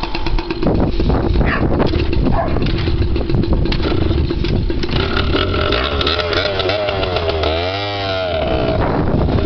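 Dirt bike engine running with rapid firing, revved up and down several times between about six and eight and a half seconds in.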